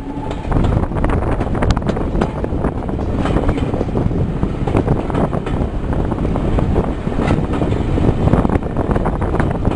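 Wind buffeting the microphone over the running noise of a diesel-hauled passenger train moving along the line, heard from inside a carriage, with scattered short knocks.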